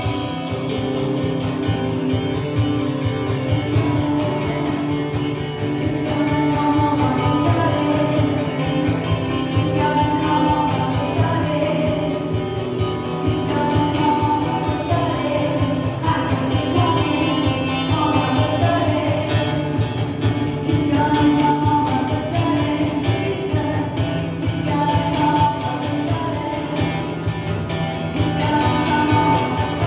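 A worship song: voices singing long held lines over guitar and a full band.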